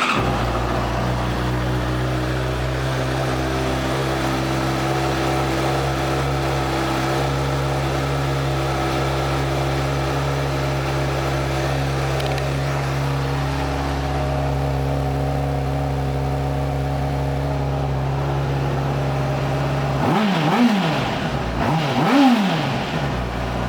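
Honda CBR600RR's inline-four engine starting and idling steadily, then revved twice near the end, with two quick throttle blips that rise and fall in pitch.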